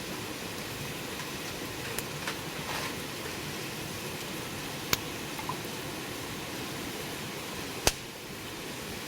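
Wood fire burning with a steady hiss, broken by a few sharp crackles and pops; the loudest pop comes near the end.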